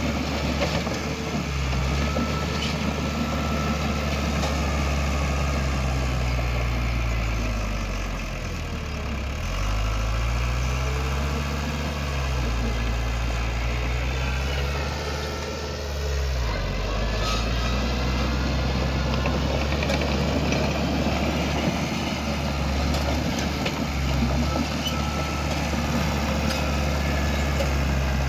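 Heavy diesel engine of an earthmoving machine running steadily. Its engine speed drops and picks back up twice, about a third of the way in and again just past halfway.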